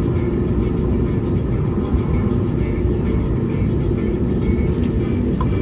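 Airbus A321neo's running jet engines heard as a steady low rumble inside the cabin, with a faint high whine over it.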